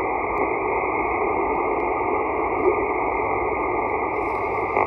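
Shortwave ham radio receiver on the 20-meter band giving a steady hiss of band noise through its speaker while the operator listens for a reply to his call. No clear answering voice comes through.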